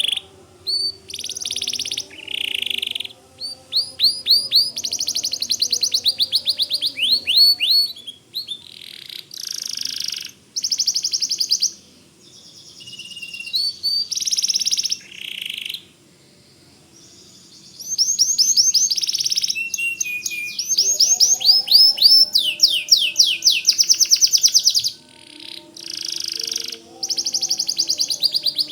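White domestic canary singing, phrase after phrase of fast repeated high notes and rolling trills, with a short pause about halfway through.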